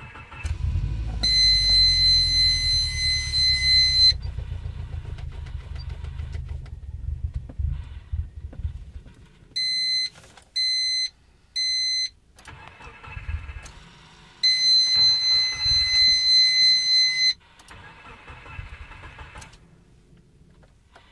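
Hot car engine being cranked by the starter and failing to catch, a hot-start no-start. Mixed in is the car's electronic warning chime: a long high tone, then three short beeps, then another long tone.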